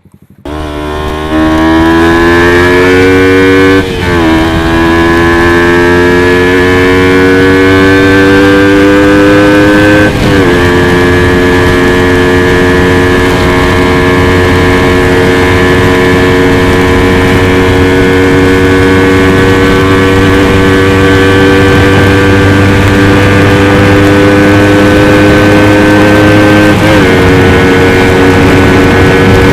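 Motorcycle engine pulling away and accelerating, its pitch climbing and then dropping at upshifts about 4, 10 and 27 seconds in. Between the later shifts it cruises at a nearly steady pitch.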